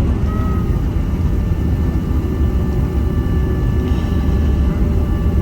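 Boeing 767 jet noise during landing: a steady low rumble with thin, steady whining tones above it, and a short rising whine about half a second in.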